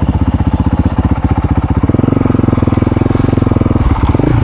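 Honda motorcycle engine running under way, its firing pulses steady, the note shifting about two seconds in and dipping and picking up again near the end.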